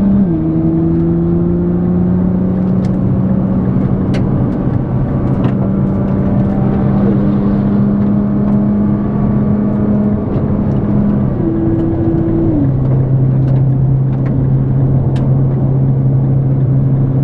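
Nissan GT-R R35's twin-turbo V6 engine running hard at track speed, heard from inside the cabin. It holds fairly steady revs, and its pitch steps down sharply three times, at the start, about halfway through and near the end.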